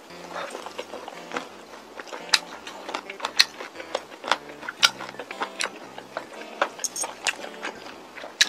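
Close-miked crunching and chewing on crispy chili-pepper fried chicken: irregular sharp crunches, about two a second.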